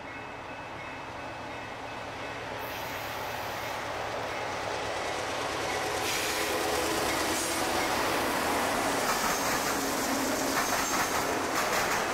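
A train drawing near and passing, growing steadily louder through the first half, with the rush of wheels on rail, a thin squeal of wheels, and rapid clicking over rail joints near the end.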